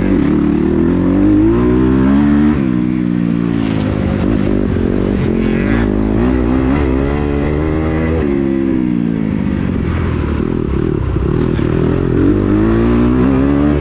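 Kawasaki KX250 motocross bike's engine revving hard. Its pitch climbs and falls again and again, dropping sharply about two and a half seconds in and again around eight seconds.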